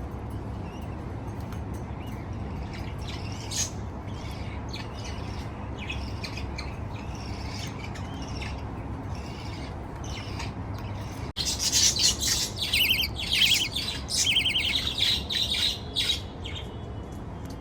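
Baby budgerigar chicks chirping, faint at first, then much louder rapid, pulsing squawky chirps from about eleven seconds in that fade out near the end, over a steady low background noise.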